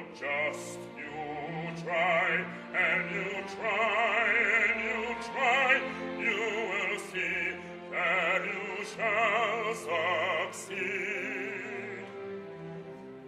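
Operatic singing with a wide vibrato, phrase after phrase with short breaks between them, over a steady instrumental accompaniment.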